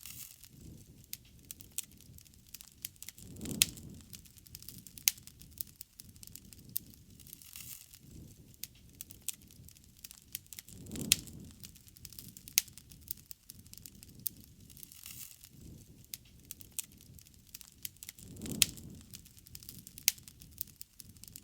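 Wood bonfire crackling, with frequent sharp pops and snaps over a soft hiss. A low rumbling swell rises three times, about every seven and a half seconds.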